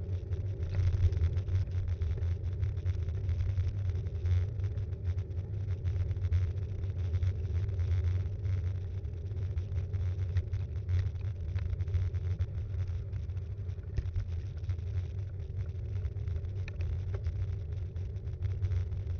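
Steady low rumble of a mountain bike being ridden, heard through a bike-mounted action cam: road and tyre vibration plus wind on the microphone, with frequent small rattles.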